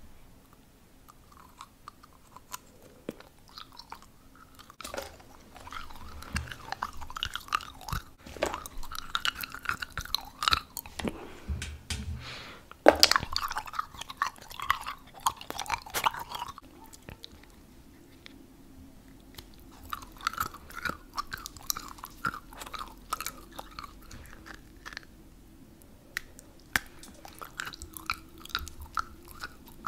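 Close-miked biting and chewing of something crunchy: sharp crunches and mouth sounds, busiest in the first half with one loud snap about halfway through, then lighter, steady chewing.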